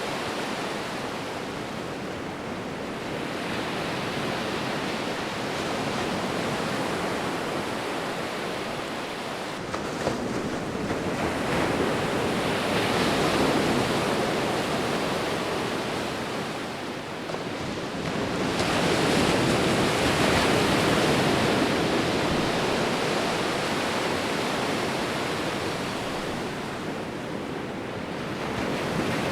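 Sea waves rolling in: a continuous rushing wash of surf that swells and ebbs, with the loudest surges about halfway through and again past two-thirds of the way.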